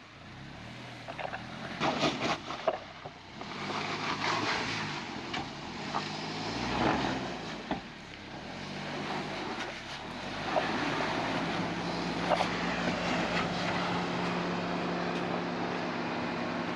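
Suzuki Jimny JB74's 1.5-litre four-cylinder engine running at low revs as it crawls over a rocky obstacle, with scattered knocks as the tyres and underbody work over rock. The engine note settles into a steady hum in the second half.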